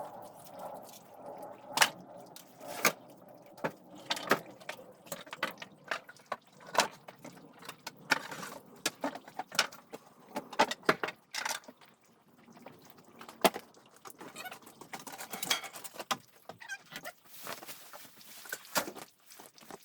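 Irregular knocks and clatters of wood being handled and moved, one sharp strike after another at uneven intervals.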